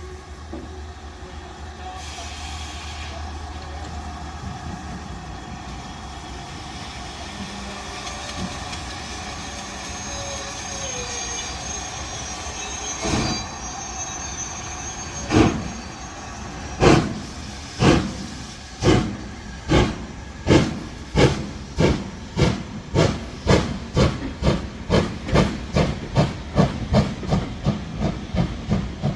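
Steam locomotive blowing off a steady hiss of steam, then starting away: its exhaust chuffs begin about halfway through, slow at first, and quicken steadily to two or three a second as it gathers speed.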